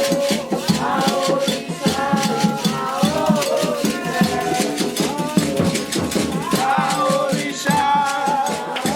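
Candomblé ritual music: voices singing a chant over a steady, rhythmic beat of percussion and a shaken rattle.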